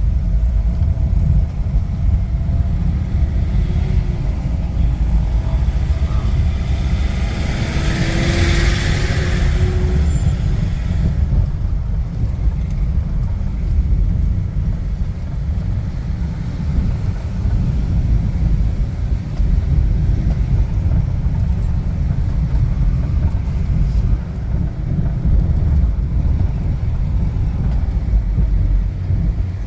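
Strong wind buffeting the microphone: a heavy, steady low rumble. A broader hiss swells and fades between about seven and eleven seconds in.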